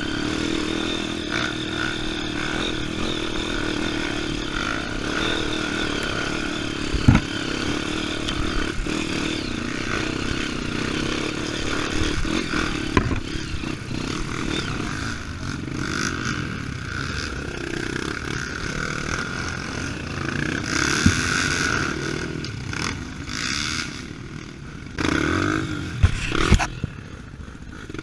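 Off-road trail motorcycle engine running as it is ridden, its pitch rising and falling with the throttle, with a few sharp knocks and clatter over rough ground.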